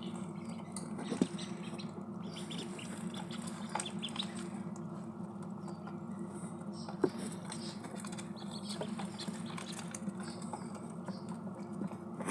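Ducklings pecking and dabbling at their food and water: a steady patter of small taps and nibbling, with a sharper tap about a second in and another past the middle, over a steady low hum.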